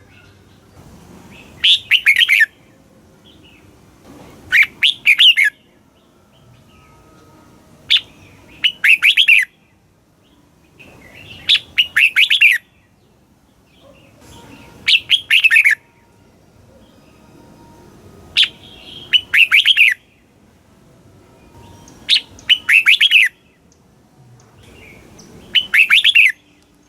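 Red-whiskered bulbul singing: eight short phrases of quick, bright notes, one about every three to four seconds.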